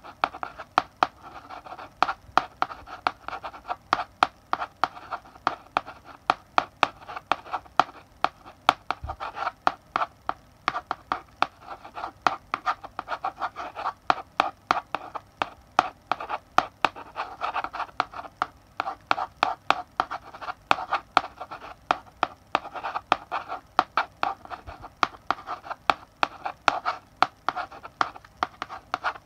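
Chalk writing on a blackboard: scratchy strokes with sharp taps as the chalk strikes the board, several taps a second, going on without a break.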